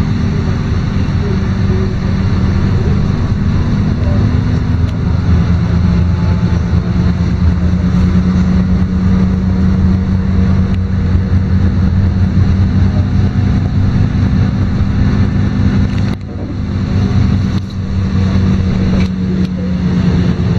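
LiAZ-5292 city bus heard from inside while under way: a steady, loud diesel engine drone with road noise. The level dips briefly twice near the end.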